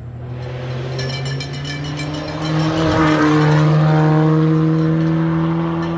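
Rally car accelerating past at full throttle, its engine pitch climbing steadily throughout. It grows louder to a peak a little past halfway, then eases off slightly as it pulls away.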